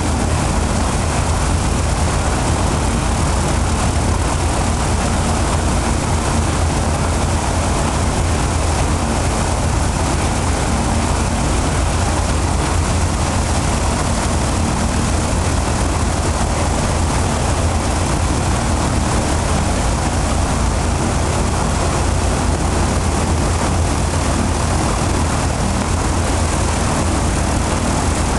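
Ilyushin Il-14's left engine, a Shvetsov ASh-82 fourteen-cylinder radial driving a propeller, running at a steady high setting during a ground run-up. It holds an even, deep drone throughout.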